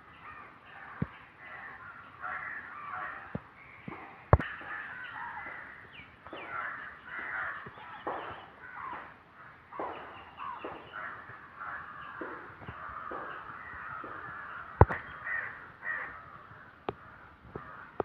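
Birds cawing harshly and repeatedly in a crow-like chorus, call after call overlapping. A few sharp clicks stand out, the loudest about four seconds in and again near the end.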